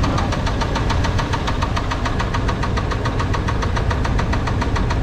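Small-block Chevy V8 running at a steady speed with a rapid, even knock on every beat: connecting-rod bearing knock from a worn rod bearing, a failure that will end in the engine locking up.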